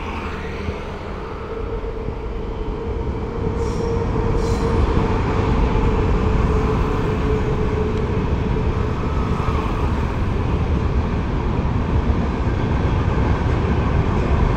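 Express passenger train's coaches rolling past on the rails, a continuous rumble and clatter of wheels on track that grows gradually louder.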